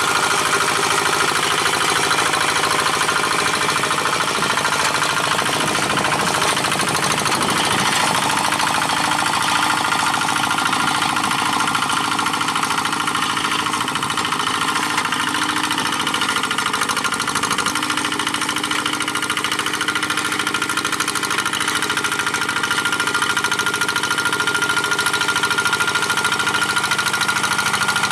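Single-cylinder diesel engine of a G1000 two-wheel hand tractor running steadily under load while pulling a moldboard plough through dry paddy soil.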